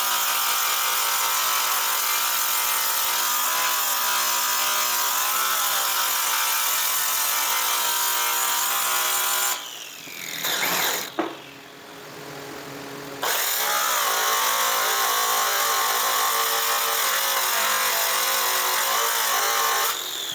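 Electric power tool sanding a metal airplane exhaust pipe, running at a steady speed. It runs for about nine seconds, stops, briefly restarts, pauses, then runs again for about seven seconds before switching off and winding down near the end.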